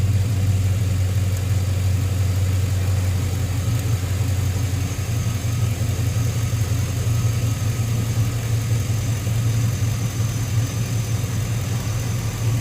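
2005 Chevrolet Tahoe's 5.3-litre V8 idling steadily, running with its broken engine ground wire freshly repaired.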